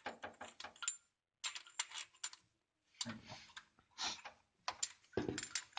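Ratchet clicking in short irregular runs as a spark plug is turned into the cylinder head of a Dodge Ram W100's V8.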